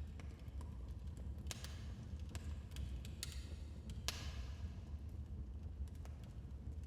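Wood fire in a fireplace crackling: irregular sharp pops and snaps, a few louder ones, over a low steady rumble of the flames.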